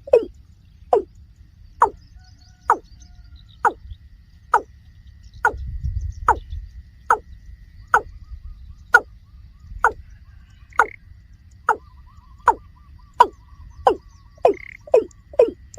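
Watercock calling: a long series of short, hollow notes, each falling in pitch, about one a second, quickening near the start and end.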